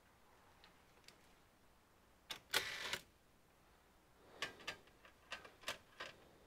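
Small clicks and taps of tools, screws and plastic parts being handled while an all-in-one computer is taken apart, with a brief, louder scrape about two and a half seconds in and a quick run of sharper clicks later on.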